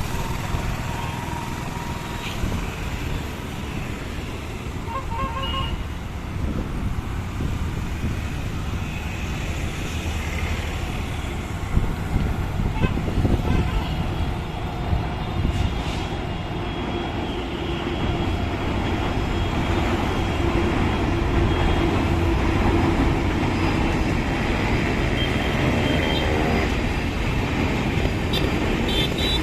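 Steady outdoor road-traffic rumble with a few short vehicle horn toots; the rumble grows louder over the second half.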